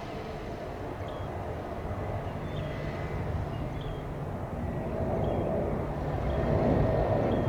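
Jet airliner engine rumble, growing louder over the last few seconds as the aircraft nears, with short high chirps about once a second.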